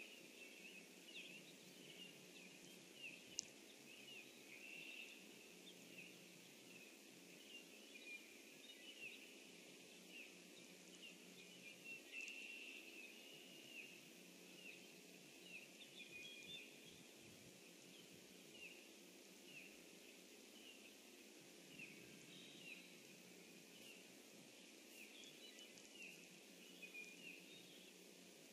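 Faint pond-side ambience with a steady scatter of short high chirps from small birds calling, and one sharp click about three seconds in.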